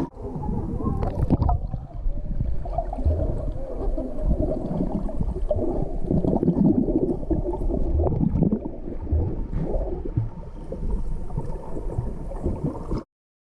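Muffled gurgling and rumbling of moving water, recorded by a GoPro submerged underwater, with a few sharp clicks about a second in. The sound cuts off abruptly near the end.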